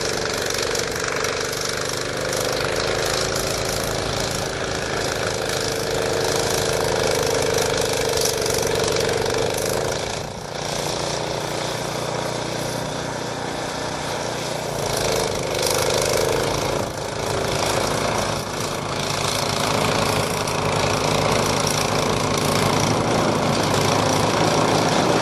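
Snowblower engine running steadily, with a brief dip in level about ten seconds in and another a few seconds later.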